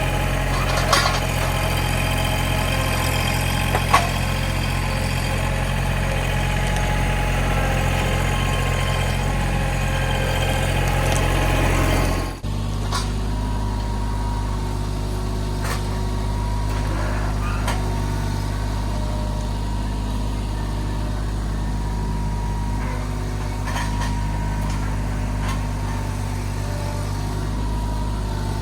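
Tractor engine running steadily at a low, even speed, with a sharp knock about four seconds in. About twelve seconds in, its sound changes abruptly to a different steady tone.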